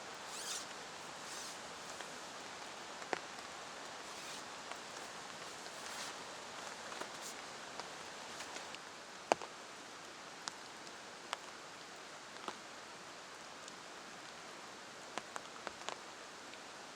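Steady rain hiss with scattered sharp taps of heavy drops, the loudest about nine seconds in. Two brief rustles come near the start.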